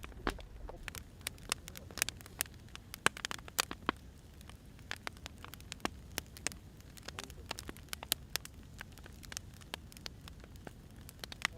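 Wood fire crackling: irregular sharp pops and snaps of uneven loudness over a low steady hiss.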